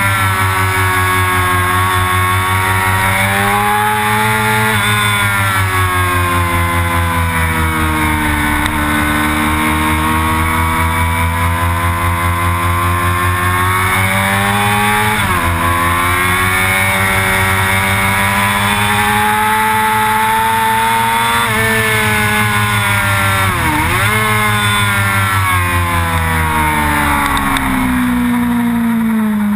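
Sport motorcycle engine under hard riding on a race track, heard from a camera mounted on the bike: the engine note climbs steadily under throttle and drops back at each gear change or throttle roll-off. Twice, about halfway through and again near the end, the pitch dips sharply and comes straight back up.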